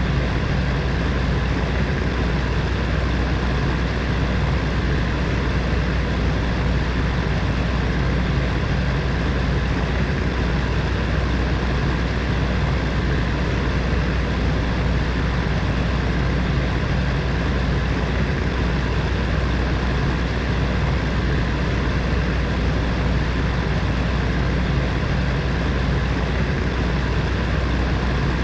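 Heater fan running steadily: an even rushing noise over a deep, constant hum, unchanging throughout.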